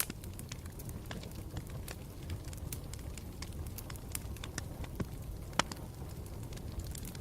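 Campfire burning with a steady low rumble and frequent irregular crackles, the loudest pop a little after five and a half seconds.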